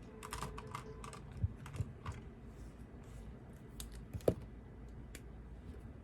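Typing on a computer keyboard: a quick run of keystrokes in the first two seconds, then a few scattered keys, with one heavier thump a little after four seconds.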